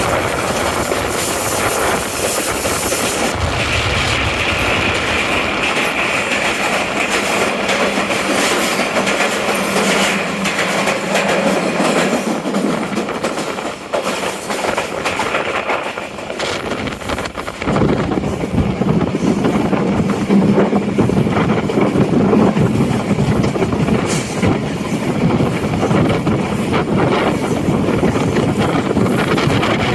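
Express passenger train running along the track: a steady rumble with wheels clattering over the rails. The low rumble grows heavier a little past halfway.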